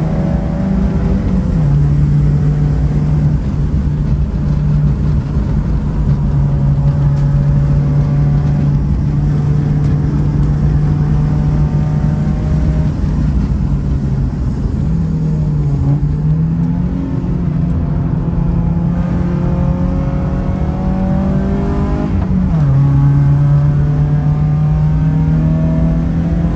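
Car engine running hard on a race-track lap, one steady note under load. Its pitch drops sharply about a second and a half in and again near the end, then climbs slowly, as at gear changes, with a brief dip and rise around the middle.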